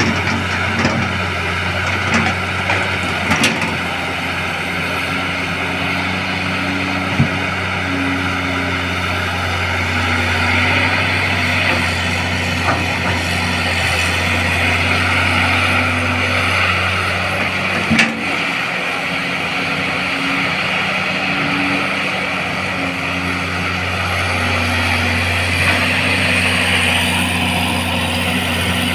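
Caterpillar excavator's diesel engine running steadily under load with a hydraulic hiss, and a few sharp clanks, as it strains to track out of mud. Its travel motors lack the power to drive the tracks.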